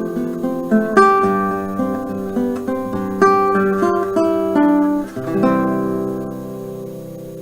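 Acoustic guitar playing the closing phrase of a song, plucked notes ending on a final chord about five seconds in that rings and slowly fades.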